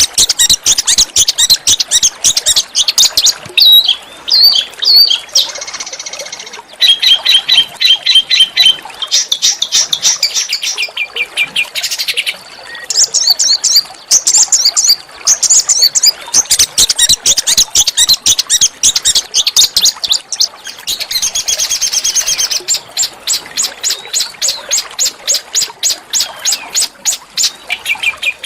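A small songbird singing a loud, nearly unbroken run of rapid, harsh repeated notes and fast trills, high-pitched and shifting from phrase to phrase, used as a masteran training song for songbirds.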